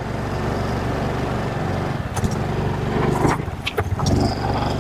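Motorcycle engine running steadily while riding up a steep, rough dirt road, with a few sharp knocks and rattles over the bumps.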